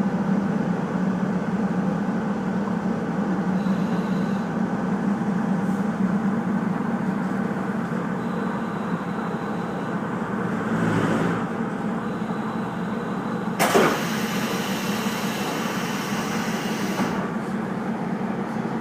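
Steady running noise of a KiHa 48 diesel railcar heard from inside the carriage: engine hum and wheels on the rails. About fourteen seconds in, a sudden loud rush of hissing noise starts and lasts a few seconds.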